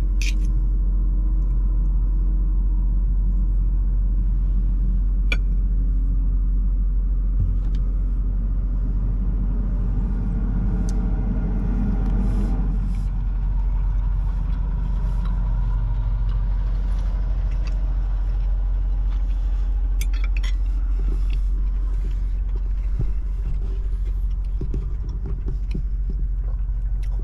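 Truck engine idling: a steady low rumble, with a few light clicks on top.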